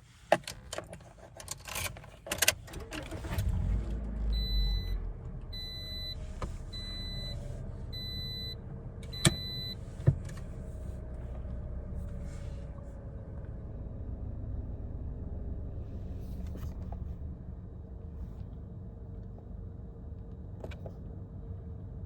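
Inside a car: a few clicks and key sounds, then the engine starts with a short low rumble and settles into a steady idle. A dashboard chime beeps five times about a second apart, and two sharp knocks come near the end of the chime.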